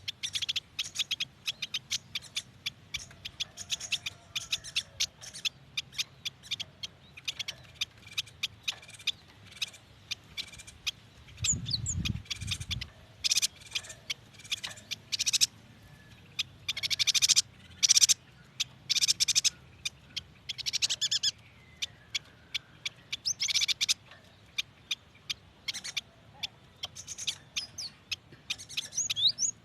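Yuhina singing: a long run of rapid, short, high chirps and twitters, with louder, fuller bursts of song now and then. A brief low thud comes about twelve seconds in.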